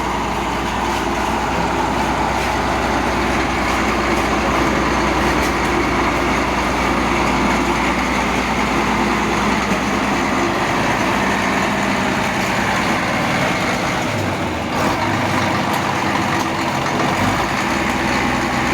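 Heavy vehicle engine running steadily, its low note dropping away for a few seconds near the end.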